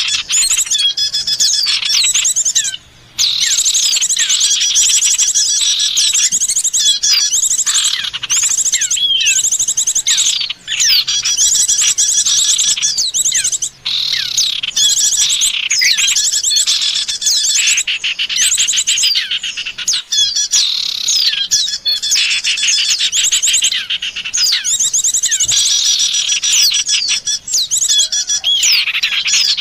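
Recorded small songbirds calling for bird luring: a dense run of high chirps, rapid trills and quick rising and falling notes, overlapping almost without pause, with a few short breaks.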